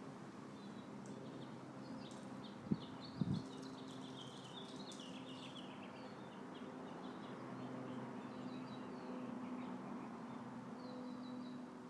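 Small birds chirping in a quick, busy run of high notes, over a faint steady low hum. Two short soft knocks come about three seconds in.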